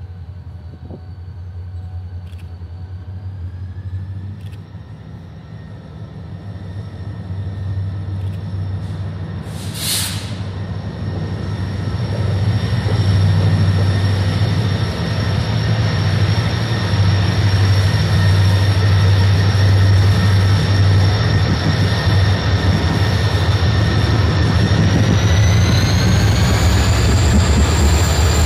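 Freight train led by diesel locomotives drawing near and passing close by: a deep, steady engine drone that grows louder over the first dozen seconds, then holds, with a high whine that rises in pitch twice. A short hiss comes about ten seconds in, and loaded stone hopper cars begin rolling past near the end.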